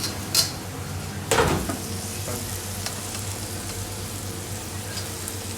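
Food sizzling as it is stir-fried in a pan on a restaurant kitchen hob, with two sharp clanks, about half a second and a second and a half in, over a steady low kitchen hum.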